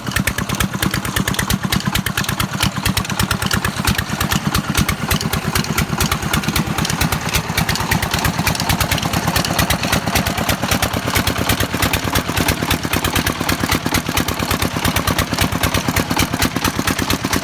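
Diesel engine driving a tubewell pump, running steadily with an even, rapid knocking beat.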